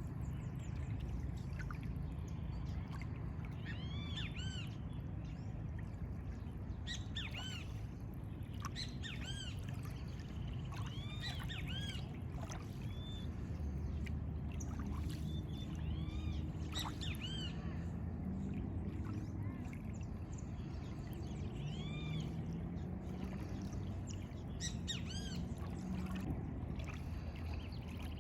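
Birds chirping: many short, arched, high calls repeated at irregular intervals, over a steady low rumble of background noise.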